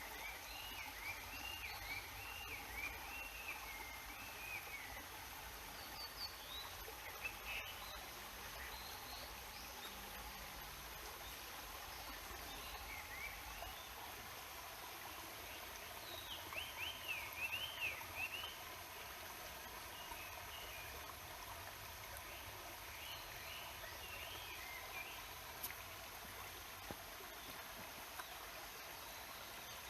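Steady rushing murmur of a mountain stream, with a songbird singing short, wavering, warbled phrases three times over it, the loudest bout just past the middle.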